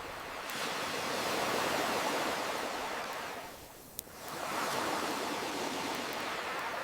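Ocean waves washing in twice, each swelling and fading, with a single sharp campfire crackle in the lull between them about four seconds in.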